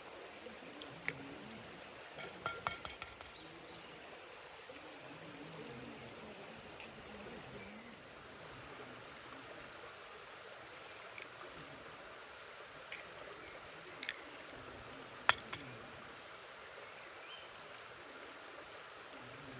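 Steady rush of a stream running, with a quick run of small clinks about two seconds in and a few sharp knocks later, the loudest about three-quarters of the way through.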